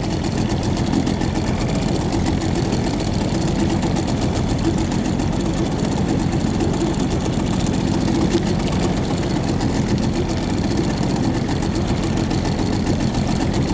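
Boat motor running steadily, a continuous even hum with no change in speed.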